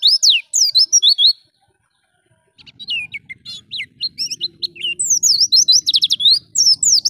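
White-eye (pleci) singing a fast, loud twittering song of quick up-and-down whistled notes; it breaks off about a second and a half in, then resumes after a second's pause.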